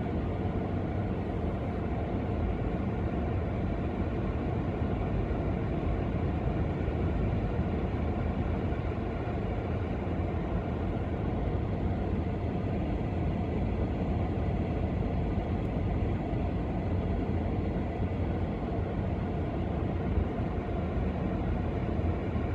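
Gale-force wind buffeting the microphone together with lake surf: a steady low rumble that holds even throughout, with no single wave crash standing out.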